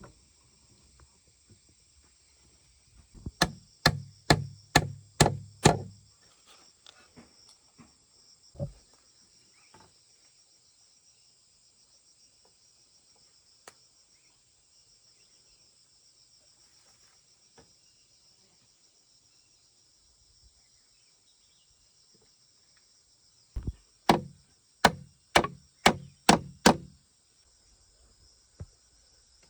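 Two runs of six or seven quick blows, about two a second, of a tool striking wood, with a single knock between them. Insects buzz steadily throughout.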